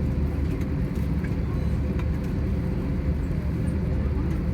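Airbus A320 cabin noise on the ground: the engines running at idle give a steady low rumble with a thin steady hum, and a few faint ticks.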